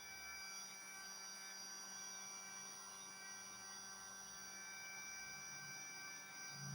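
Heat gun running steadily, a faint hum with a steady whine from its fan motor.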